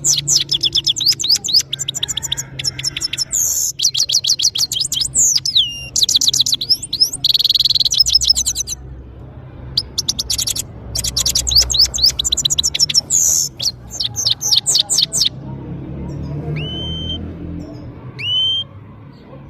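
European goldfinch singing: long, fast twittering phrases of rapid high trills and sweeps, with a short break about 9 s in. The song stops about 15 s in and is followed by two single rising call notes near the end.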